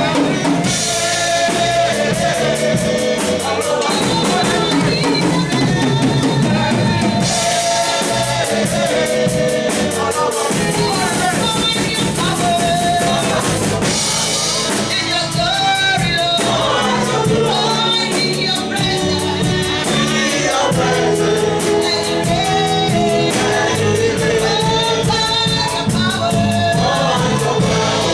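Gospel worship music: a choir and voices singing over a drum kit and instruments with a steady beat.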